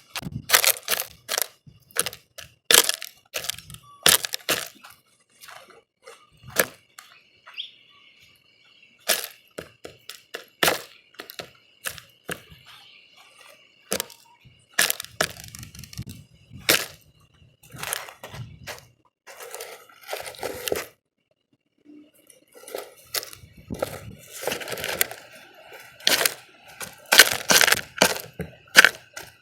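Birds pecking and scratching at a feeder close to the microphone: irregular sharp taps and cracks, often in quick runs, with short pauses between.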